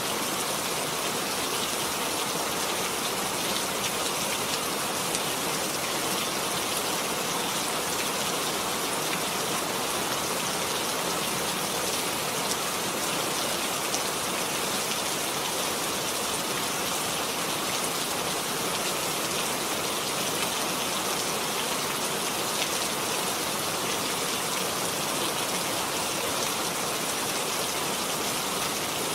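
Steady rain falling, an even hiss of drops with faint close drop ticks and no letup.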